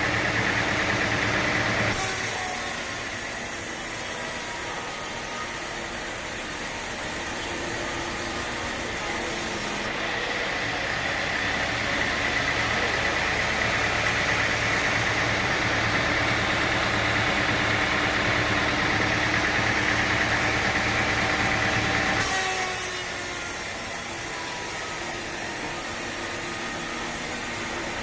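Sawmill blade cutting through a teak log, with its engine running steadily underneath. A high, hissing cutting noise starts abruptly about two seconds in and cuts off suddenly near the end.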